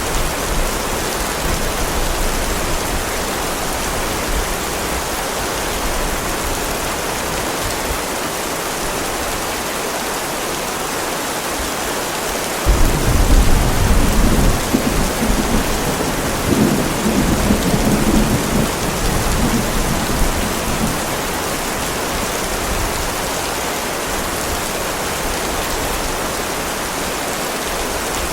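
Heavy rain falling steadily with thunder. A low rumble dies away over the first several seconds, then a louder roll of thunder breaks in suddenly near the middle and rumbles on for several seconds before fading.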